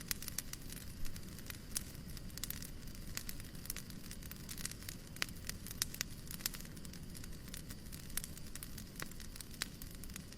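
Wood fire crackling in a fireplace: irregular sharp pops and snaps over a steady low rumble of noise.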